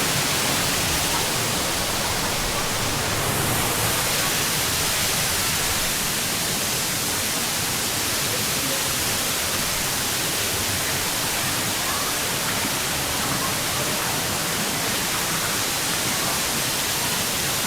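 Waterfall at close range: a steady, loud rush of falling water.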